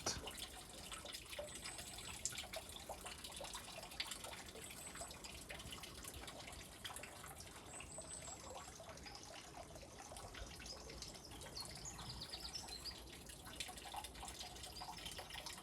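Faint spring water trickling and dripping, a steady soft splash with scattered drips.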